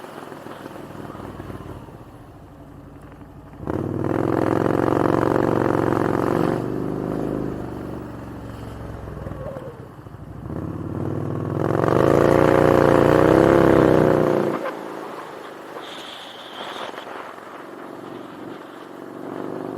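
Motorcycle engine running, getting louder as it accelerates about four seconds in and again around twelve seconds in, where the pitch rises and falls, quieter in between.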